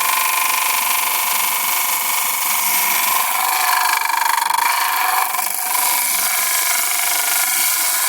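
Homemade disc sander driven by a Servis twin-tub washing machine's induction motor, sanding wood, with an old vacuum cleaner running as its dust extraction. A loud, steady hiss with a whine in it, dipping briefly about five seconds in.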